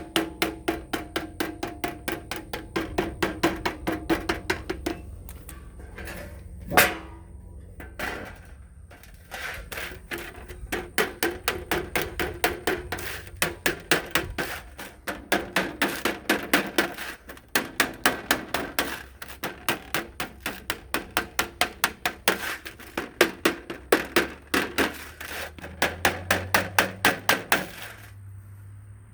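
A hammer striking thin sheet metal in quick runs of about four blows a second, folding a hem over the edge of a light skid plate. There is a pause with one heavy blow about a quarter of the way in.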